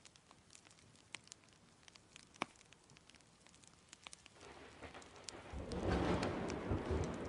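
A wood fire crackling with scattered small pops and one sharper pop about a third of the way in. About four seconds in, rain and a low rumble of thunder swell up and stay loud.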